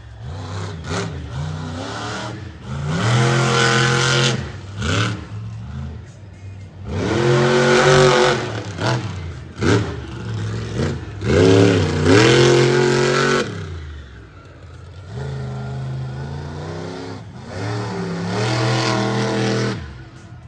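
Monster truck engine revving hard in repeated bursts, its pitch climbing and falling, with steadier, quieter running between and after the bursts.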